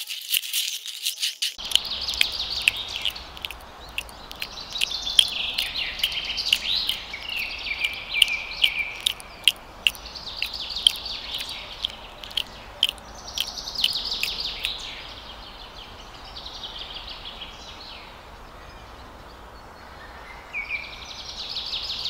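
Many small birds chirping and twittering over a steady background hiss, mixed with quick sharp chips. The chirping thins out after about fifteen seconds and picks up again near the end.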